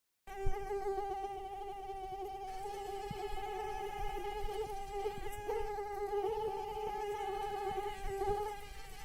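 Mosquito in flight, its wingbeat making a steady, high-pitched whine with several overtones. The whine starts abruptly about a quarter of a second in and holds an even pitch.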